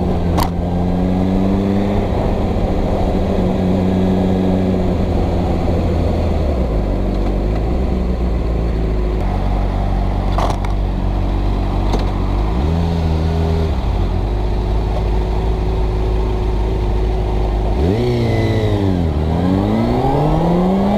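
Motorcycle engine running on the move, heard from the rider's helmet camera over wind and road noise. It holds steady revs for stretches with a few step changes, then the revs drop and climb back up about three seconds before the end.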